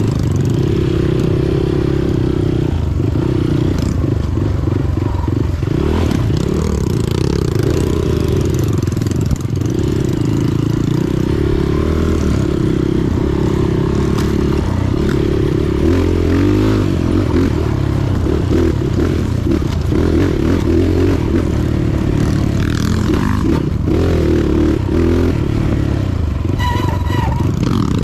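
Motorcycle engine running under way, with rattling and scraping from the bike over rough ground. A brief high squeal near the end.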